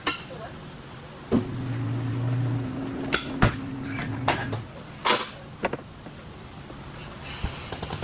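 A series of sharp metallic knocks and clanks, with a low steady hum for a few seconds in the middle. Music comes in near the end.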